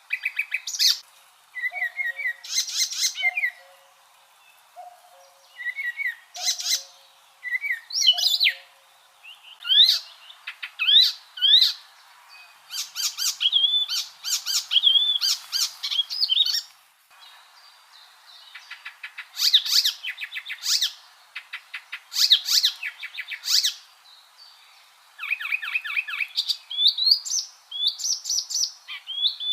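Icterine warbler singing: a fast, varied song of repeated notes, chattering trills and rising whistled phrases, coming in bursts with short pauses between.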